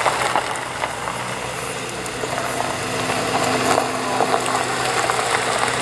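Car engine idling steadily, its low hum growing stronger about halfway through as the car comes up close.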